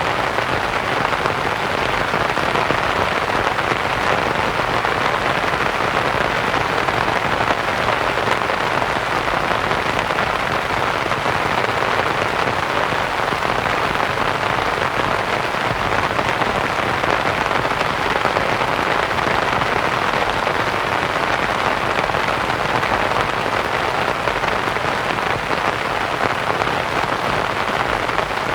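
Steady rain falling on a canvas tent, mixed with soft white noise, even and unbroken.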